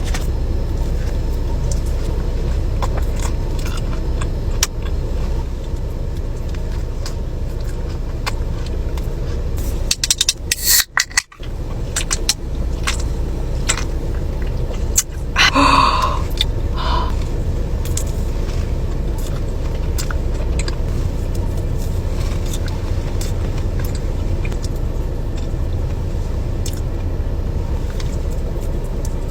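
Steady low rumble of a car's interior, with scattered small clicks and scrapes of handling. The sound breaks off briefly about eleven seconds in.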